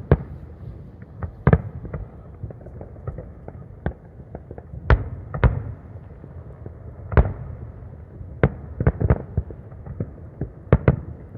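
Aerial fireworks shells bursting: a run of sharp, irregular bangs, some coming in quick clusters, over a steady low rumble.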